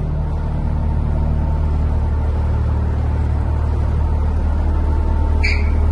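Cummins ISB 6.7 L six-cylinder diesel of a box truck idling with a steady low rumble, getting slightly louder, with a short higher-pitched squeak near the end.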